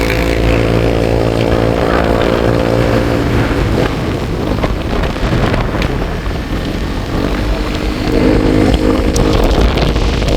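Vehicle engine running steadily under way, with wind on the microphone. About four seconds in the engine note gives way to a rougher, noisier stretch, and it comes back clearly near the end.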